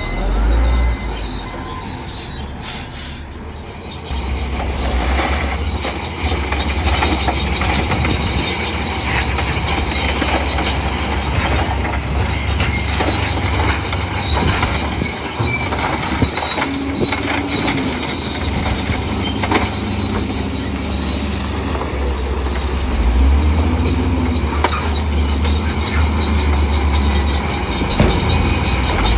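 Bulldozer at work: its diesel engine rumbles low while its steel crawler tracks squeal and clank, with scattered knocks. It gets louder about four seconds in.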